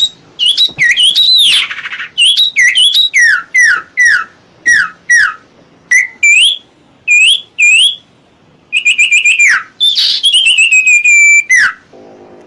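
Songbird giving loud, clear whistled calls: a string of separate notes, most sliding down in pitch and some sliding up, followed near the end by a quick run of rapid notes. A training recording of the kind played to caged songbirds to teach them a song.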